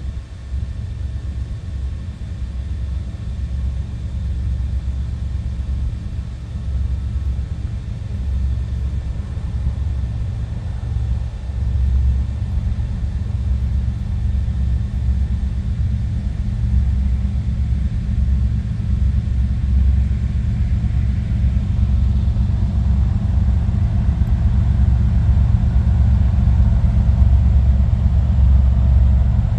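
Diesel locomotives of a Union Pacific train rumbling, growing gradually louder as they approach.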